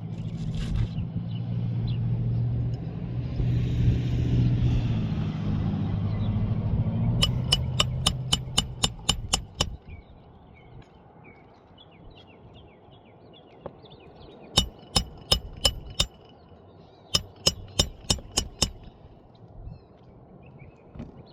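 A low engine rumble swells and fades during the first nine seconds. Three runs of sharp, ringing hammer taps on roofing nails follow, about four strikes a second, the runs a few seconds apart.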